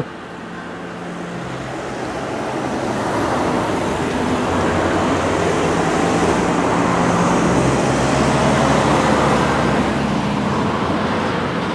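Motor vehicle and road traffic noise that swells over several seconds and then eases, with a low engine hum under the tyre noise.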